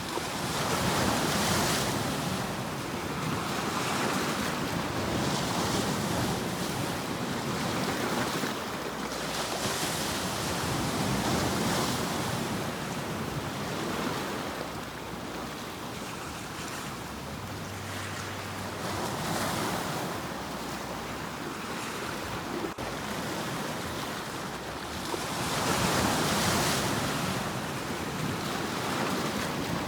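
Sea waves breaking and washing on a shore, the surf swelling and easing every few seconds, with some wind noise.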